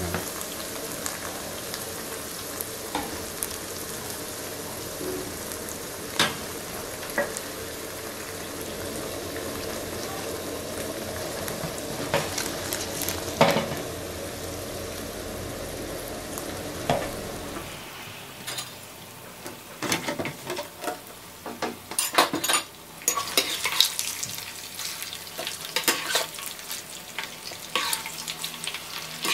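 Tofu cubes and cubes of cooked chicken blood sizzling in oil in a nonstick frying pan, with a metal spatula scraping and knocking against the pan as the pieces are turned. After about 18 seconds the sizzle drops and the spatula knocks come more often.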